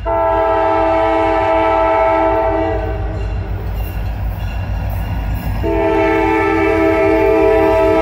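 Diesel locomotive air horn sounding for a grade crossing: one long chord of about three seconds, a pause, then a second long chord starting near the end, over the low rumble of the approaching train.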